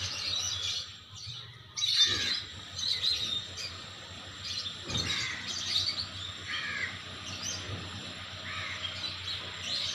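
Birds chirping and calling, many short chirps and trills overlapping, with louder bursts about two and five seconds in.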